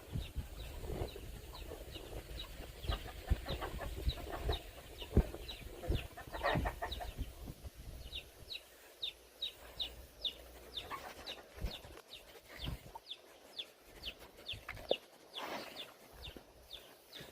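Chickens clucking, with a quick run of short, high, falling peeps in the middle. Scattered low knocks and thumps in the first half.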